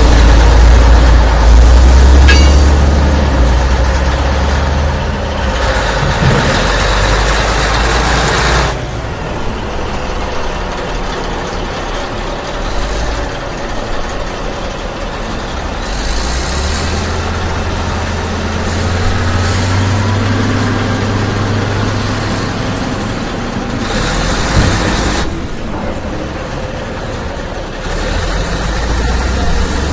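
A heavy vehicle's engine running with a deep rumble and a hissing noise, the sound shifting in level and character several times.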